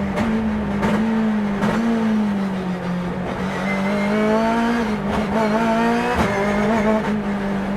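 Turbocharged BMW S14B20 inline-four of a BMW E36 race car running hard under load. Its pitch climbs twice in pulls, and several sharp cracks break the sound.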